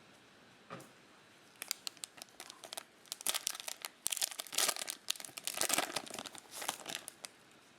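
A 2020 Panini Mosaic football card pack's wrapper is torn open and crinkled, with irregular crackling bursts starting about a second and a half in and stopping shortly before the end.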